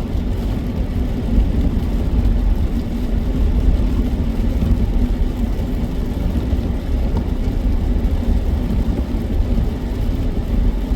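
Road and engine noise inside a moving car's cabin: a steady low rumble with an even hum.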